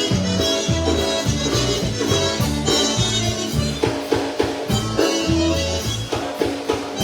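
Polka band music: a band playing a bouncy bass line of short repeated notes under sustained melody notes, with a drum kit keeping the beat.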